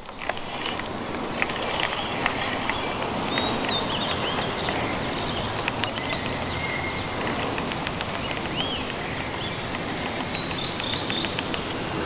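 Birds calling on and off, short chirps and whistled notes, over a steady hiss of outdoor background noise.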